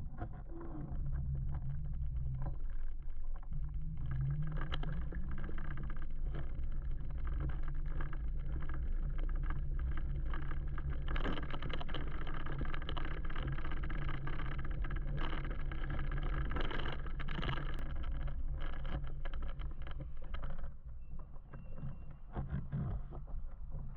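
Riding noise from an electric motorbike moving through city traffic: a steady low rumble of wind and road, with crackles of wind buffeting the microphone. It eases near the end as the bike slows.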